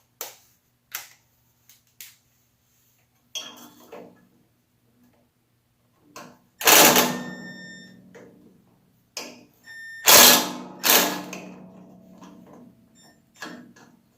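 Metal parts and tools clanking while someone works on a machine: a series of light taps and clicks, then two loud metallic clangs, about seven and ten seconds in, that ring on as they fade.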